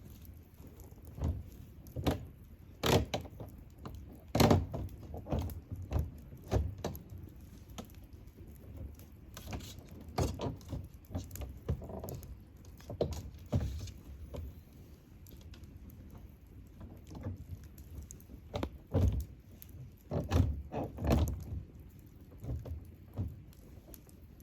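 Wood campfire crackling, with irregular sharp pops and snaps, a few of them loud, over a low steady rustle of burning.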